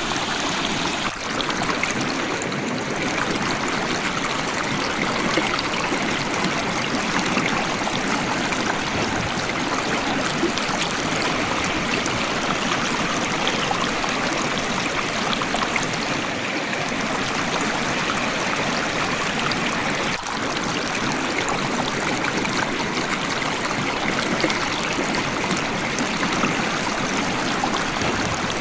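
River water flowing and splashing over stones: a steady rushing stream sound.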